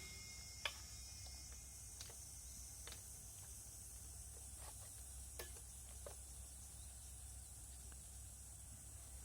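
Near silence with a low steady hum and a few faint, scattered small clicks.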